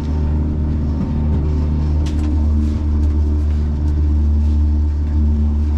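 Outboard motor running at a steady speed while the boat is underway, a constant low hum, with a few faint ticks about two seconds in.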